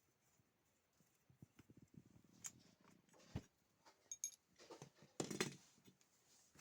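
Faint scattered clicks and knocks of a sewing machine and its parts being handled during repair, with a quick run of small ticks about a second and a half in and a brief louder rustle near the end.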